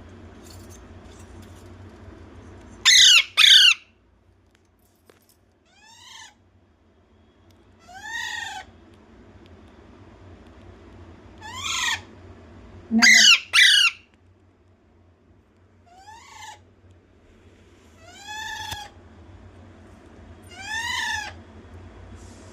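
Pet parrot calling: short calls a few seconds apart that rise and fall in pitch, with two loud harsh double squawks about three seconds in and again about thirteen seconds in.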